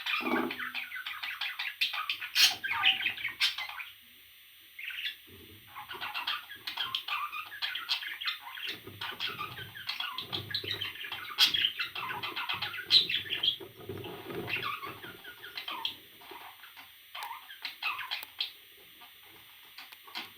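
Pet parrot chirping and chattering in a near-continuous stream of short, high calls, with a brief pause about four seconds in.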